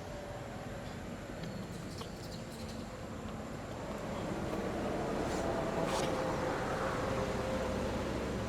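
A motor vehicle's engine rumbling steadily, growing louder about four seconds in, with a few faint clicks.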